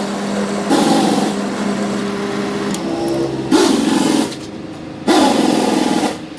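Power tool running on the rusted steel axle, a steady motor hum broken by three short bursts of harsh grinding noise as it is pressed to the metal; the hum fades about halfway through.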